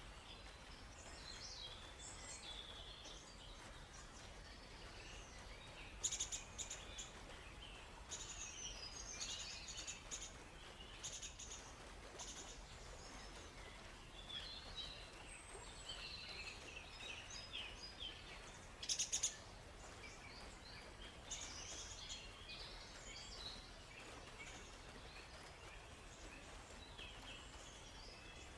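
Several songbirds chirping and calling in a forest over a faint steady hiss, in keeping with distant flowing water. Two brief, loud rapid rattles stand out, about six seconds in and again about thirteen seconds later.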